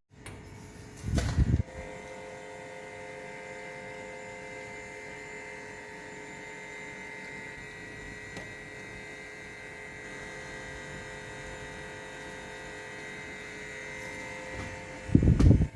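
A steady electrical hum carrying several fixed pitched tones, broken by a short loud low rumble about a second in and another near the end.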